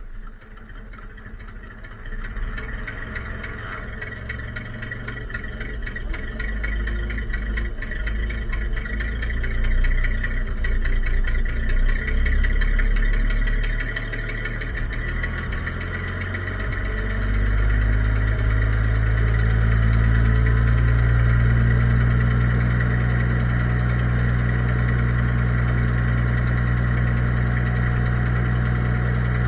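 1968 Minneapolis-Moline G900 six-cylinder propane (LP) tractor engine starting from cold after being plugged in for a couple of hours, running unevenly at first, then settling into a steady idle a little over halfway through.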